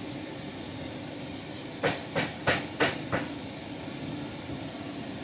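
A quick run of five sharp knocks, about three a second, over a steady background hiss.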